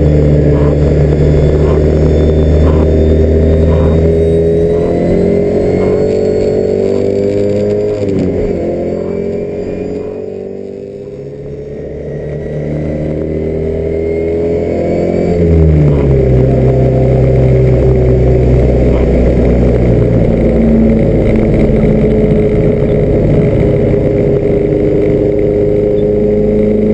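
Alfa Romeo Alfetta GTV 2000's fuel-injected twin-cam four-cylinder engine under racing load, heard from inside the cabin. It holds steady revs, lifts off about eight seconds in with the revs falling and the sound quieter, builds again, then shifts gear about fifteen seconds in and pulls on steadily, louder.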